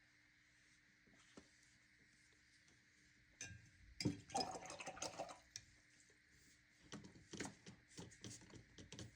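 Paintbrush being rinsed and stirred in a water cup and watercolor paint pan: faint clinks and swishing starting about three and a half seconds in, then a few scattered taps near the end.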